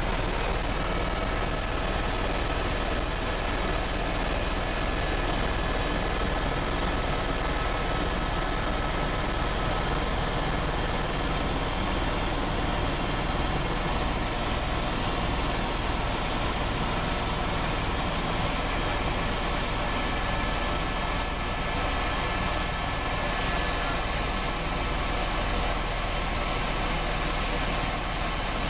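Helicopter engine and rotor running at a steady, even level, with a few faint steady whining tones over a constant rushing noise.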